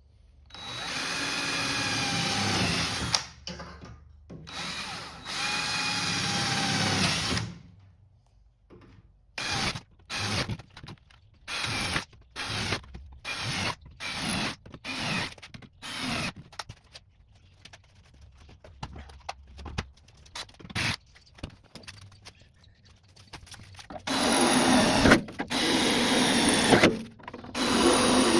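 Electric hand power tool motor whining in two runs of about three seconds each, its pitch rising slightly, then a string of short trigger blips, roughly one and a half a second, and more long runs near the end.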